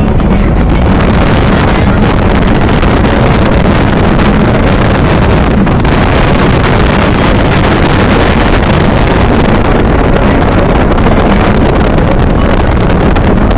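Steady loud rumble with wind buffeting the microphone, unchanging throughout.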